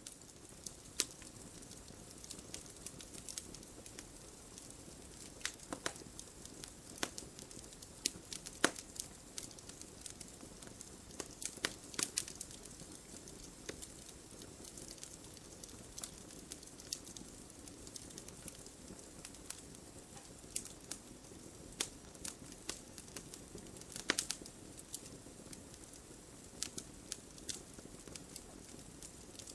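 Wood fire in a fireplace crackling: irregular sharp pops and snaps from burning logs over a soft steady hiss, with a few louder pops standing out.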